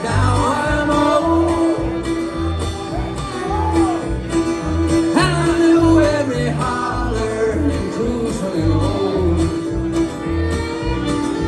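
Live acoustic bluegrass/country band playing an instrumental break: guitar and alternating bass notes under a sliding, bending lead melody, most likely fiddle.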